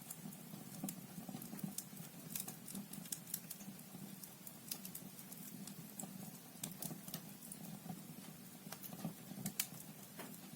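Logs burning in a fireplace, crackling with frequent irregular sharp pops over a soft steady rush of flame.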